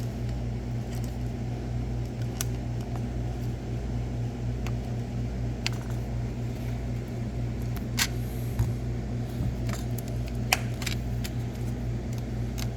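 Scattered light clicks and taps of a small electronics board and tools being handled, over a steady low hum.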